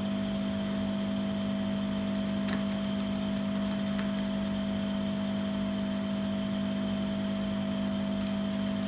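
A steady machine hum with a low drone and a fainter higher whine, unchanging throughout, with a couple of faint light clicks about two and a half and four seconds in.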